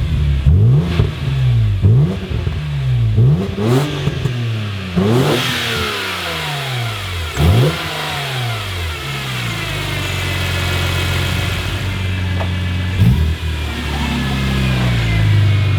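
2006 BMW Z4 M Roadster's 3.2-liter inline-six, breathing through Strömung mufflers, revved in a quick series of throttle blips that rise and fall through the first half. It then settles into a steady note, with one more short blip near the end.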